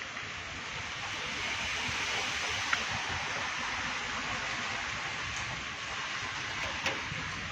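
Steady heavy rain falling, an even rushing noise, with two brief sharp ticks, one just under three seconds in and one near the end.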